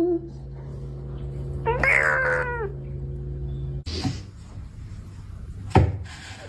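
A domestic cat meowing: a wavering cry trails off at the start, and one fuller meow lasts about a second around two seconds in, over a steady low hum. After a cut, a single sharp knock comes near the end.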